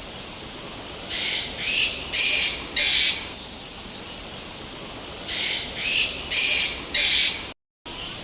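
A bird giving harsh, raspy calls in two runs of four, each run lasting about two seconds.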